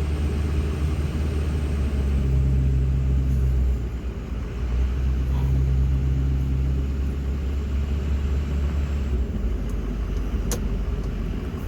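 Plow truck's engine running with a steady low rumble, its note strengthening twice as it pulls. A single sharp click near the end.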